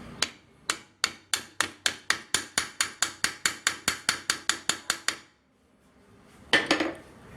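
Ball-peen hammer striking the rivet pins of a motorcycle clutch basket, metal on metal, in a fast, even run of about two dozen light blows, about five a second, for some five seconds. The blows peen the pins tighter to take the play out of a loose basket that clunks and rattles. A brief noise follows near the end.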